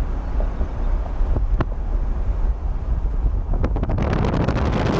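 Wind buffeting the microphone in a steady low rumble, with a couple of sharp ticks about a second and a half in. It swells into a louder, hissier rush for the last second or so.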